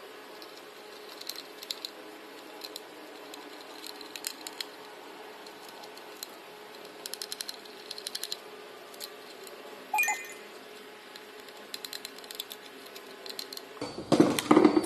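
Light clicking and ticking of small plastic parts in short, rapid runs, as a car's power-window switch assembly is handled and worked with a screwdriver, over a faint steady hum.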